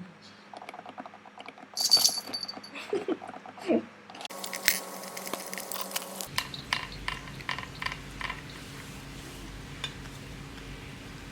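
Cats eating wet food: a run of small wet chewing and licking clicks. There is a sharp clatter about two seconds in, and a steady low hum starts a little past the middle.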